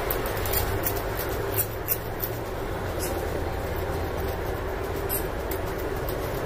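A person chewing a mouthful of raw cabbage, with a few short, sharp crunches over a steady background hiss and hum.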